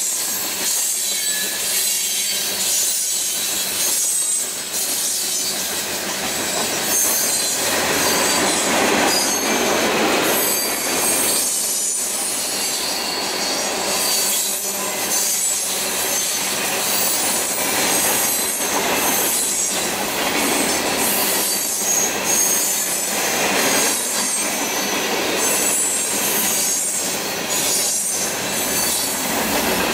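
Freight cars (tank cars, then covered hoppers and boxcars) rolling past on steel wheels: a steady rolling noise broken by repeated clacks as the wheels pass over rail joints, with thin high wheel squeal.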